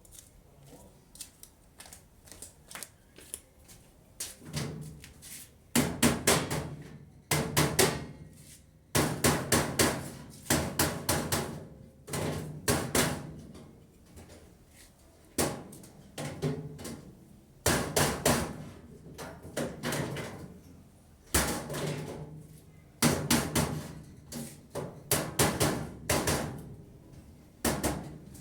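Repeated sharp knocks and clattering in clusters every second or two, with a short ringing after many of them.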